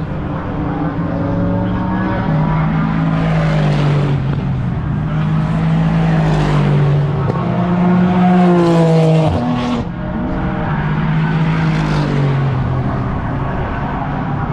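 Race car engines running at speed on a circuit, several cars passing one after another, each swelling and fading with its engine note falling as it goes by. The loudest pass comes about nine seconds in and ends in a sharp drop in pitch.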